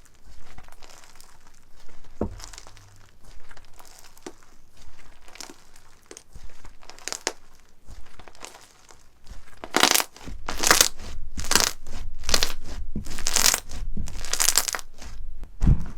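Slime being squeezed and pressed: soft crackling at first, then from about ten seconds in a run of roughly eight loud crunching presses, a little over one a second, ending in a low thump.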